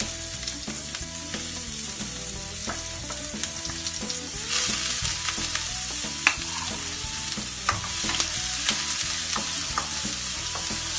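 Chopped onion sizzling in hot oil in a wok. The sizzle grows louder about four and a half seconds in, with scattered taps and scrapes of a wooden spoon stirring it against the pan.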